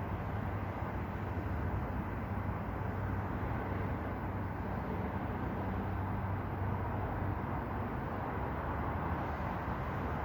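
Steady low mechanical hum under a constant rushing noise, unchanging throughout.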